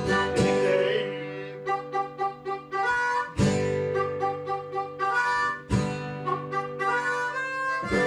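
Instrumental break: an acoustic guitar strummed, with a harmonica playing a melody of short changing notes over it.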